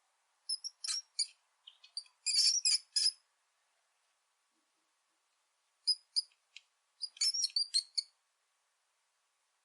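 Rat squeaking: quick clusters of short, high-pitched squeaks, one group in the first three seconds and another from about six to eight seconds, with a silent gap between.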